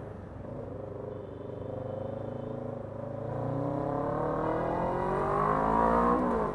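Motorbike engine pulling away under throttle, its pitch climbing steadily for about three seconds and growing louder, then dropping off sharply near the end as the throttle is rolled off.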